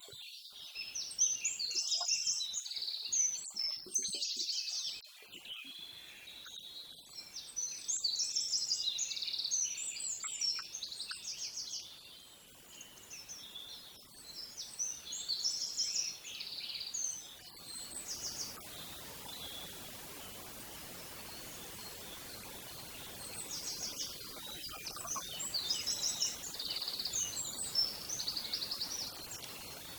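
Small birds chirping and twittering in dense, overlapping bursts of short, high calls that thin out for a few seconds in the middle, over a faint steady outdoor hiss that becomes louder about two-thirds of the way through.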